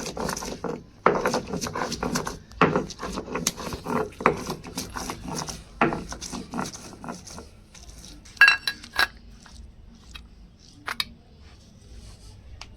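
A kitchen utensil scraping and clinking against a dish in quick, repeated strokes for about seven seconds, typical of mixing or stirring. A few sharper metallic clinks follow, then one more near the end.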